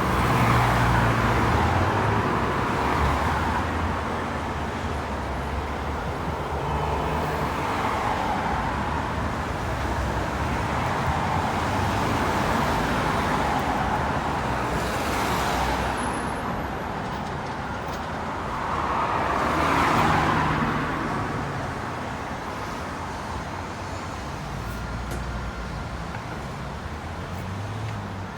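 Road traffic on a street: cars and other motor vehicles passing in a steady stream, swelling as each goes by, with the loudest passes just after the start and about two-thirds of the way through.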